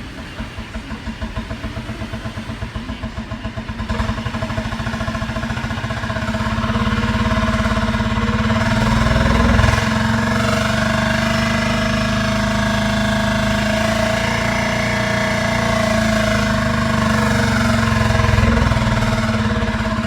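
2016 GMC Terrain's drivetrain running with the wheels spinning in the air, with a fast, rhythmic clunking from the rear driveshaft and its bearing, both damaged when the vehicle bottomed out. The speed is raised a few seconds in, and the running and pulsing grow louder.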